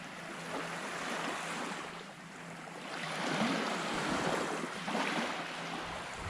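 Small waves washing onto a sandy beach, a steady rush of surf that swells about halfway through, with wind buffeting the microphone.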